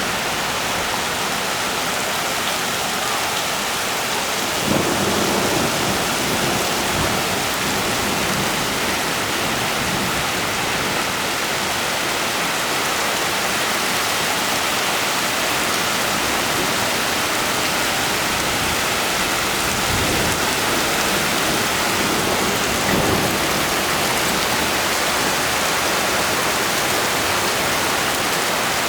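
Heavy rain pouring steadily during a thunderstorm, with two brief louder low swells, about five seconds in and again later on.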